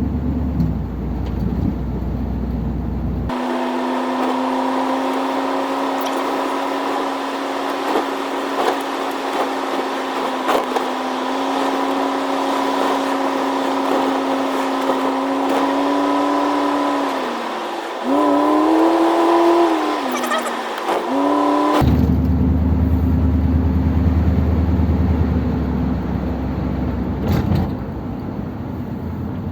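Ford Thunderbird being driven, heard from inside the car: engine and road rumble, then a steady engine drone whose pitch falls, rises and falls again as the car slows and speeds up.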